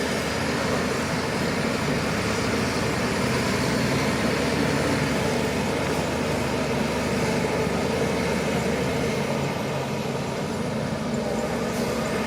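Shantui crawler bulldozer's diesel engine running steadily as it works, easing off a little about nine seconds in.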